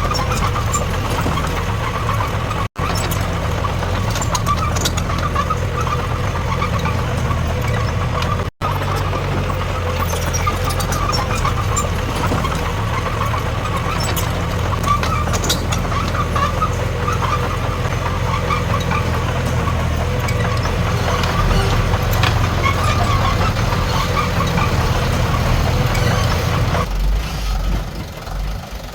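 Heavy diesel earthmoving machinery running steadily. The sound cuts out for an instant twice, and near the end the deep engine drone drops away and the sound gets quieter.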